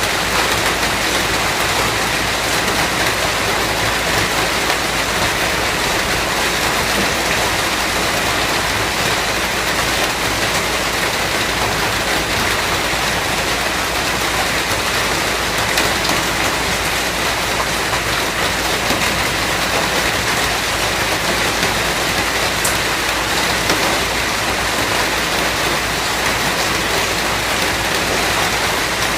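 Steady rain, an even hiss that never lets up, with an occasional single drop standing out.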